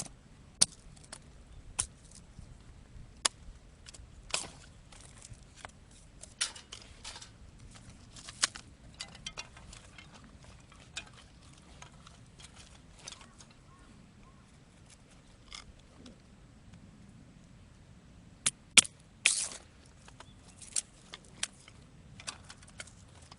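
Thin sticks of firewood being split and snapped by hand into kindling: scattered sharp cracks and clicks, with a louder cluster of cracks about three-quarters of the way through.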